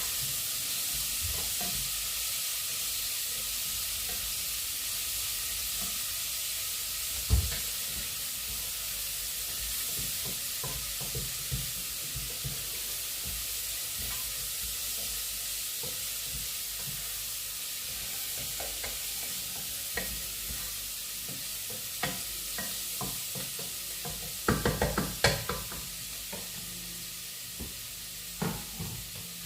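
Food sizzling in a hot frying pan while a utensil stirs it, with scattered light knocks and scrapes against the pan. There is a louder knock about seven seconds in and a quick run of knocks near the end.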